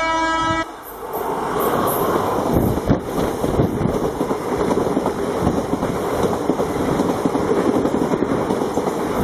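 Electric locomotive's horn sounding a steady chord that cuts off about half a second in, then the express train passing at speed, its wheels clattering rapidly over the rail joints.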